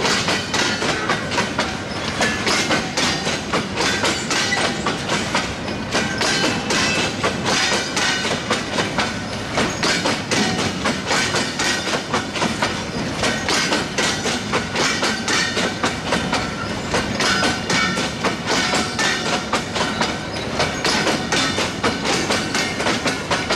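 Bogie oil tank wagons of a freight train rolling past close by, their wheels clattering over the rail joints in a fast, even clickety-clack over a steady rumble.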